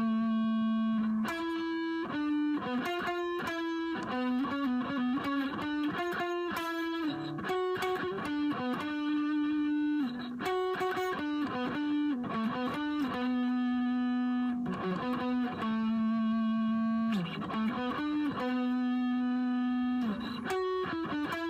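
Electric guitar playing a song's vocal melody one note at a time, mixing quick runs of short notes with notes held for a second or two.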